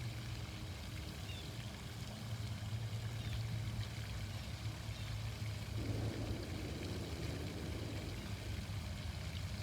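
Outdoor water fountain splashing steadily, with a low steady hum underneath.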